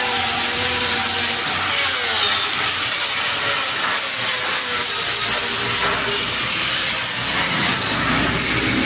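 Power tool running steadily on metalwork, its pitch dipping and recovering every second or two as it is loaded.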